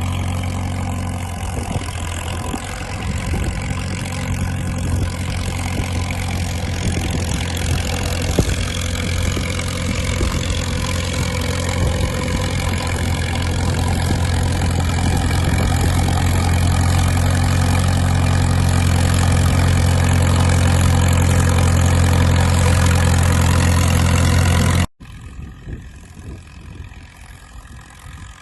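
Caterpillar crawler dozer's diesel engine running steadily with a deep drone. It cuts off abruptly near the end, leaving a much quieter low rumble.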